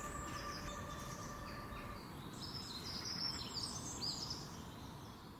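Birds chirping over a low outdoor ambience, with a cluster of short high chirps in the middle; held musical notes die out about two seconds in, and everything fades away near the end.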